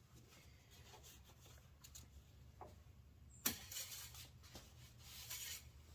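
Faint handling noises while the engine oil level is being checked: a few light clicks, then a sharp click about halfway in followed by brief rubbing, and another short rub near the end.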